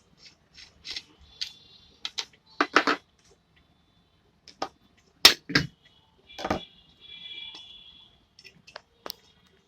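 Metal clicks, clinks and knocks of tools and parts as a ceiling fan is taken apart, with two loud knocks a little past five seconds in and a scraping rattle that follows for about a second and a half.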